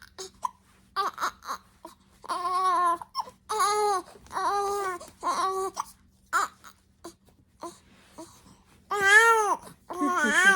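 Young baby's voice: a run of short, high-pitched cry-like wails, each about half a second, that stop for a few seconds midway and return as two louder ones near the end.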